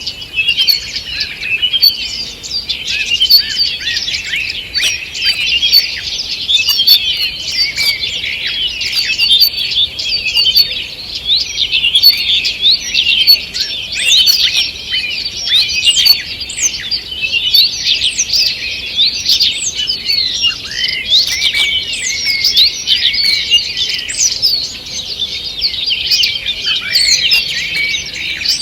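A dawn chorus of many small songbirds singing at once, dense overlapping chirps, trills and whistles with no pause.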